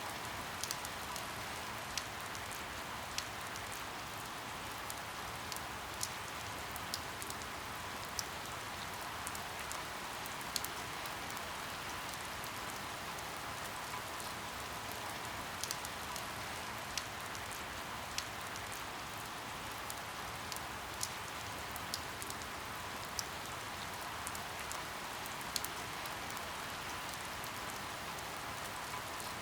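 Steady rain falling, with individual drops ticking sharply on a surface at irregular moments a few times a second.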